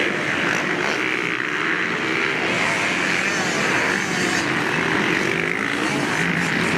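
Motocross dirt bike engine running hard on the track, its pitch wavering up and down with the throttle.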